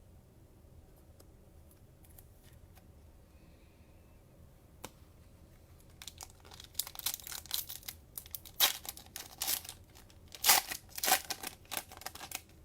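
Cellophane wrapper of a trading-card cello pack being torn open and crinkled: a quick run of sharp crackles starting about halfway in, after a few faint ticks.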